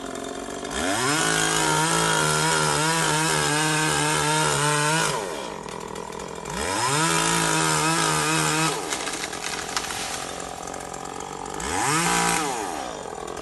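Zenoah GZ2700T two-stroke chainsaw revved to full throttle and held for about four seconds, dropped to idle, revved and held again for about two seconds, then given a short blip near the end, idling in between.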